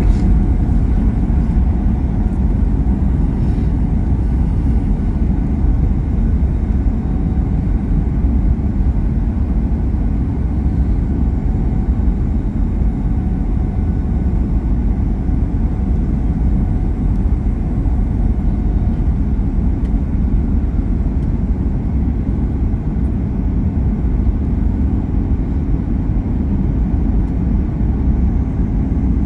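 Steady cabin noise inside a Boeing 737 MAX 8 in flight on approach: a deep, even rumble of airflow and CFM LEAP-1B engines, with a faint steady hum.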